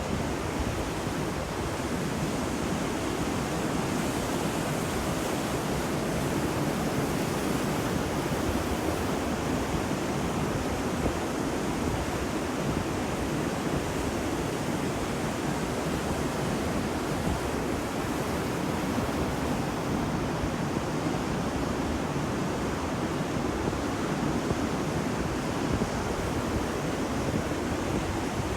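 Ocean surf washing on a beach, a steady roar of breaking waves with wind on the microphone.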